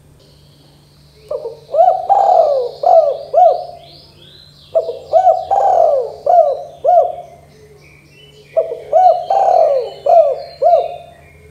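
Spotted dove (tekukur) cooing: three phrases of five or six low coos each, about two seconds apart. Small birds chirp faintly behind it.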